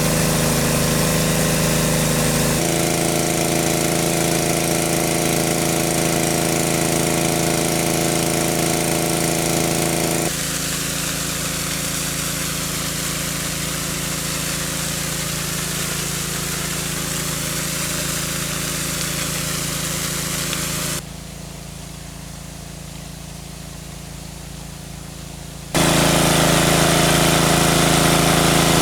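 A small engine running steadily with a constant hum. Its tone and loudness change abruptly three or four times, and it drops quieter for a few seconds near the end before coming back loud.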